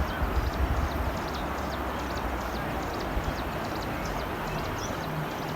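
Outdoor ambience: a steady noisy background with many short, high chirps, and a low rumble with a few loud thumps in the first second.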